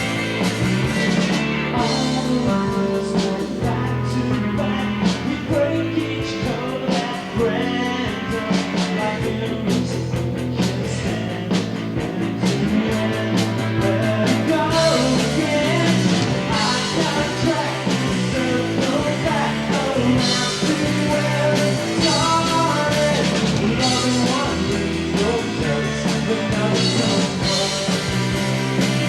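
Live rock band playing: electric guitars, bass and a drum kit, with a steady drum beat.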